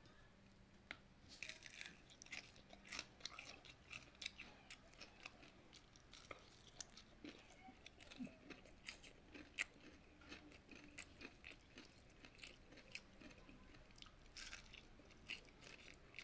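Someone chewing crispy fried shredded sweet potato and banana fritter: many short, irregular crunches and crackles.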